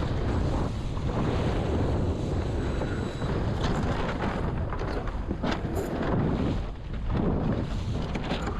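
Wind buffeting the microphone aboard a small sailing dinghy under way, a gusty rush with water noise beneath it and a few short clicks about halfway through.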